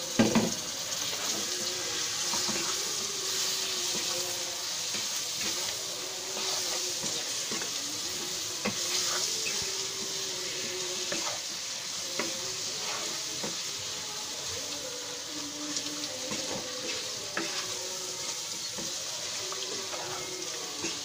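Raw bone-in chicken pieces sizzling in oil and fried spice paste in a nonstick frying pan, stirred with a wooden spatula that knocks and scrapes against the pan. A loud knock comes right at the start. This is the chicken being fried in the masala before water is added.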